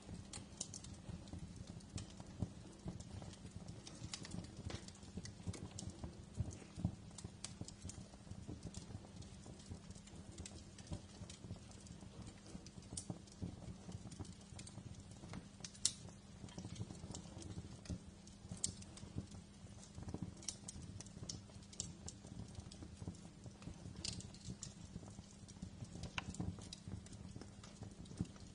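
Wood fire burning in a fireplace: a soft low rumble of flames with frequent irregular crackles and snaps, a few sharper pops standing out, the loudest about a third of the way in.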